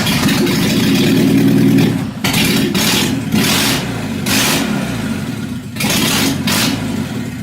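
Nissan S12 Gazelle's engine started and running, with about five short bursts of revving; the car's engine is running again after the work done on it.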